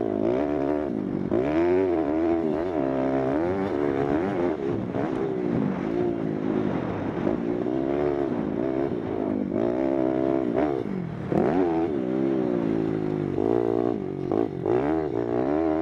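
Pitster Pro LXR pit bike's single-cylinder four-stroke engine being ridden hard, its pitch climbing and dropping again every second or two as the throttle is opened and shut.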